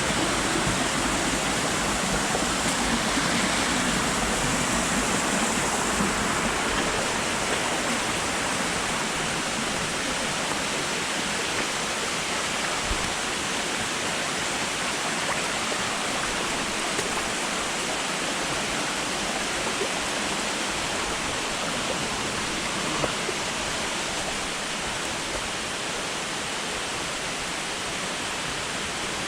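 Steady rush of falling water from a waterfall, an even hiss without distinct events, easing off slightly toward the end.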